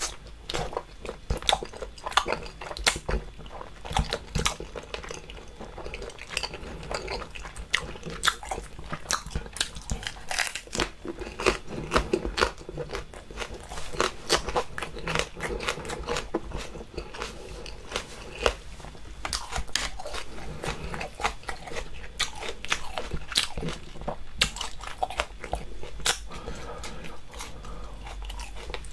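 Close-miked chewing of spicy braised octopus and crisp raw green chili pepper: wet, sticky mouth sounds with many irregular sharp crunches.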